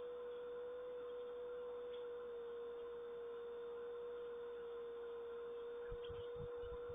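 A steady, faint hum held at one pitch over a soft background hiss, with a few low thuds near the end.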